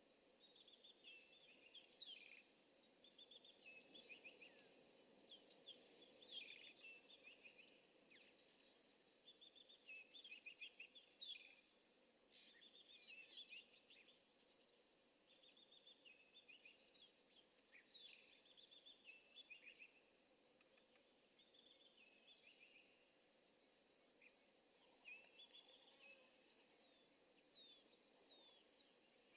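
Woodland kingfisher calling: a phrase of quick high notes, repeated every few seconds, over faint background hiss.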